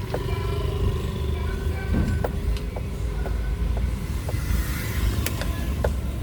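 Steady low rumble of a moving road vehicle, with scattered light ticks over it.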